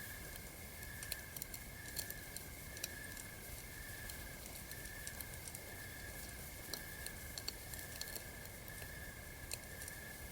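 Campfire crackling, with irregular sharp pops over a steady soft hiss, while night insects chirp in a steady rhythm about one and a half times a second.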